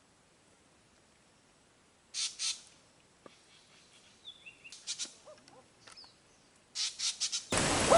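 Bird calls: two short harsh, rasping calls, then scattered short chirps and whistled notes, then a quick run of harsh calls. A sudden rush of loud noise cuts in near the end.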